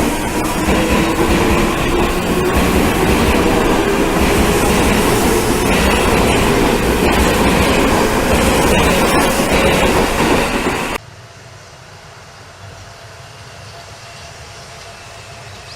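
Seibu Railway electric train running close by, its motor whine rising in pitch and its wheels clacking over rail joints. The sound cuts off abruptly about eleven seconds in, leaving a much quieter, steady low hum.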